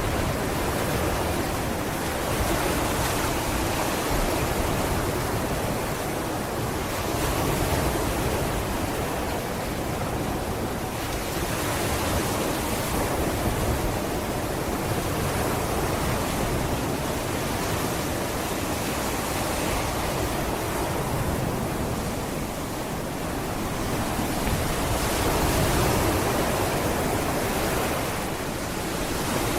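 Sea waves washing onto a beach: a steady rushing surf that swells and eases gently every few seconds.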